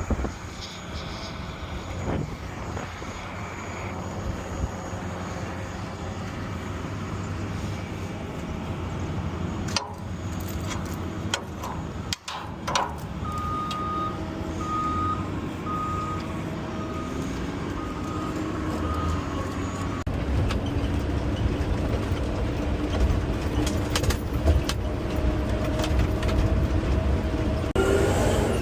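Garbage truck engine running, with a few knocks about a third of the way in. Midway a backup alarm gives about six short evenly spaced beeps. The engine then rises in pitch and grows louder toward the end.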